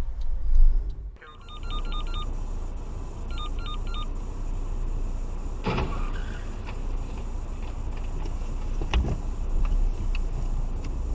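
Car driving, with steady road and engine noise picked up by a dash camera. Two quick runs of short electronic beeps sound near the start, and there is a sharp knock about six seconds in.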